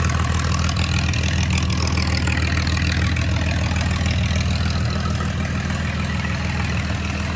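Straight-piped John Deere 4010 LP tractor's propane-fuelled six-cylinder engine idling steadily, its exhaust coming straight out of the manifold with no muffler: super loud.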